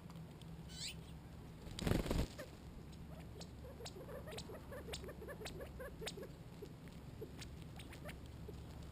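Quail foraging. A short whistled call comes near the start and a brief loud rustle about two seconds in, followed by a quick run of soft low clucks and sharp pecking ticks.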